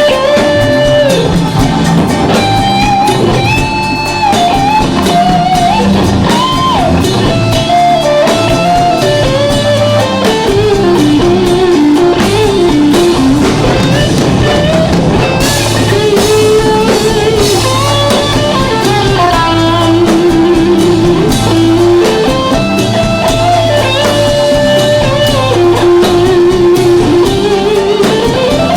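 Live rock band playing, with a lead electric guitar melody that slides between notes and holds wavering notes, over drums.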